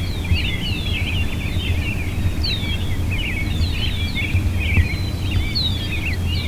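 Songbirds chirping at dawn, many short high notes sweeping downward in quick succession, over a steady low rumble.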